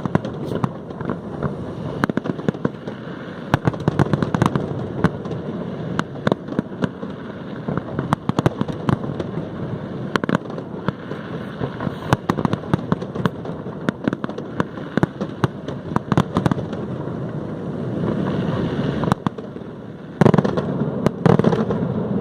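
Aerial fireworks display: a dense run of rapid cracks and bangs over a continuous rumble of shell bursts. After a brief lull the cracks come louder again about twenty seconds in.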